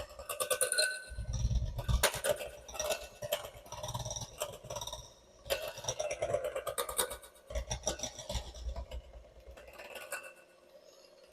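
Kitchen utensils scraping and clinking against a bowl, in stretches of a few seconds with short pauses between them, going quiet about ten seconds in.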